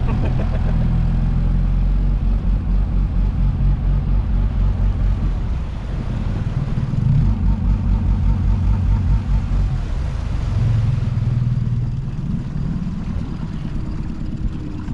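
Gasoline outboard motor on a small inflatable boat running rough, its sound surging and dropping in quick uneven pulses, a few a second. It is a misfiring, sputtering motor that the owner says is getting gas and suspects has a bad cylinder.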